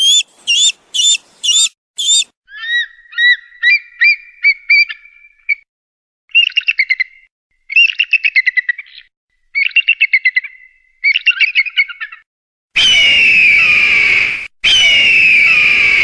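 Eagle calls. Five short rising whistles come first, then several quick runs of chittering notes, and then two long, harsh, falling screams near the end.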